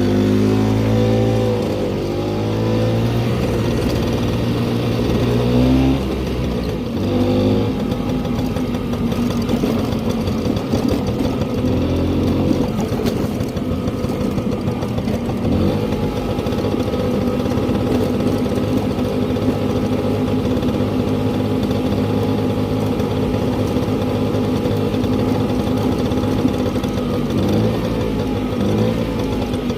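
Motor scooter engine running under way, its pitch rising and falling with the throttle through the first dozen seconds, then holding steady from about halfway until near the end.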